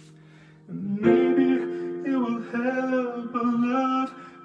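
A man singing a melody with no clear words over acoustic guitar. It comes in about a second in, after a quiet held chord.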